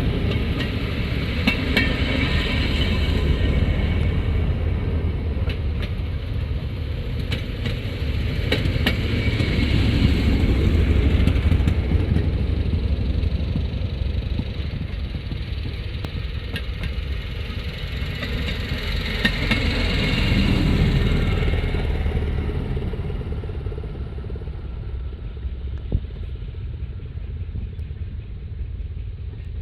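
Railroad track motorcars running along the rails, their small engines' rumble swelling and fading several times as the cars move past, with scattered light clicks.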